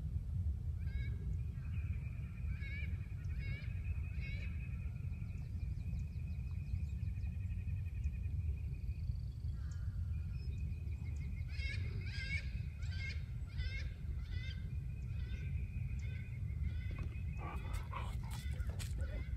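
Birds calling repeatedly in short high notes, with a long high trill held for several seconds twice, over a steady low rumble. A few sharp clicks near the end.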